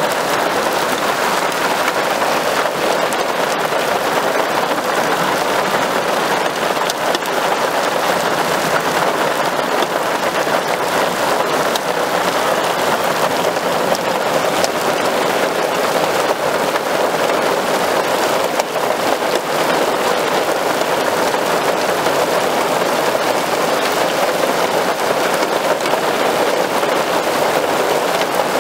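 Torrential rain pouring down, a loud, steady hiss of countless drops striking wet, flooded ground.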